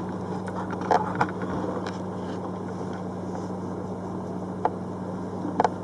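A few small clicks and taps of wire and plastic connectors being handled as a cable is pushed into a Wago lever connector, over a steady low hum.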